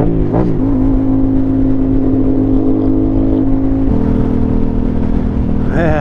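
Motorcycle engine running at a steady speed while riding, its note holding, then changing pitch about four seconds in.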